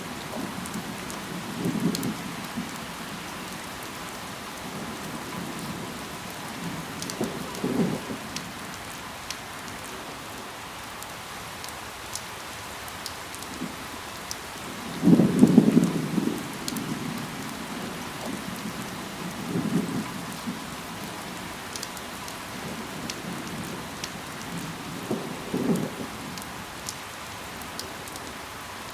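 Steady rain falling, a continuous hiss with scattered sharp drop ticks. Five times it swells into a short, louder low thud or rumble, the loudest about halfway through.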